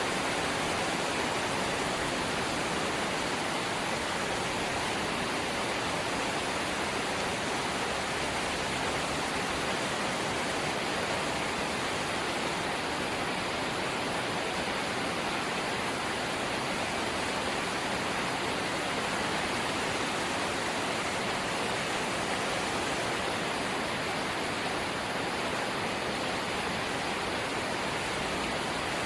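Steady light rain, an even hiss with no distinct drops or changes.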